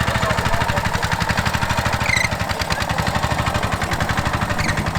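Small petrol engine of a Cambodian bamboo train running steadily with a fast, even pulse. A brief high chirp sounds about two seconds in, and a fainter one near the end.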